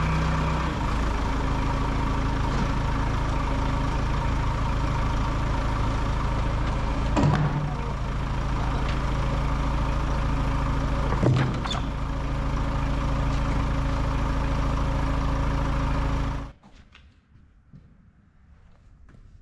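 Portable band sawmill running steadily under power, with two brief louder surges about seven and eleven seconds in. The machine sound stops abruptly near the end, leaving only faint, quiet sounds.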